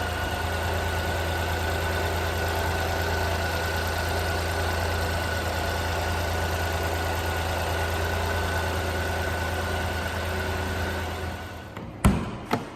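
1997 Honda Acty mini truck's small three-cylinder engine idling steadily, then shut off near the end. Two sharp knocks about half a second apart follow.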